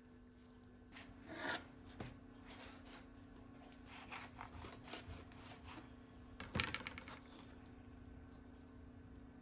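Rubbing and scraping from making a tortilla wrap by hand, a series of brief rustles and scrapes with the loudest about one and a half seconds in and again near six and a half seconds, over a steady low hum.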